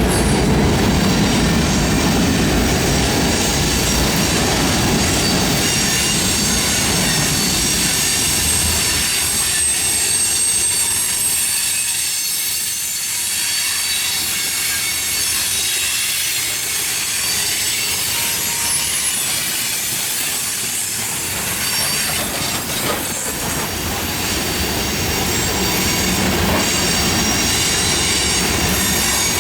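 A train's cars rolling past, their steel wheels squealing on the rails with high, steady, ringing tones over a continuous rolling rumble.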